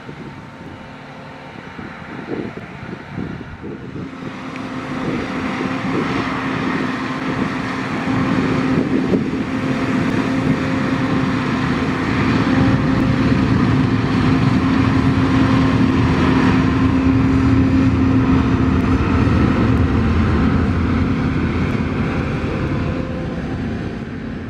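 Diesel engine of a harvest machine (combine or tractor) running steadily, growing louder over the first several seconds as it comes closer, then easing off near the end.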